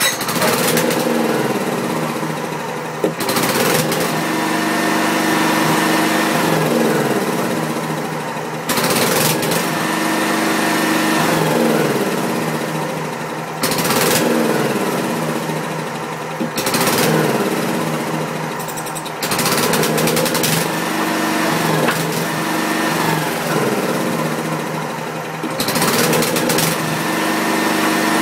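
Wisconsin Robin EY27W single-cylinder air-cooled engine running unevenly, its speed sagging and picking back up again and again, about every two to three seconds: the engine is struggling as if about to stall and keeps doing it.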